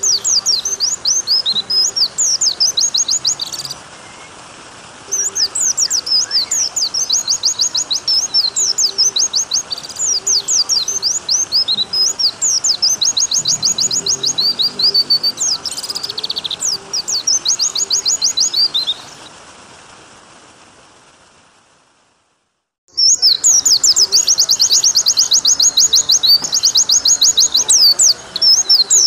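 White-eye (pleci) song: rapid, high chirping trills in long, fast runs over a faint steady water sound. About nineteen seconds in, the song fades out to a moment of silence, then starts again loudly about three seconds later.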